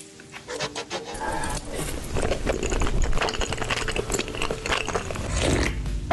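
Eating and food-handling noises: a dense run of clicks and scrapes over a low rumble.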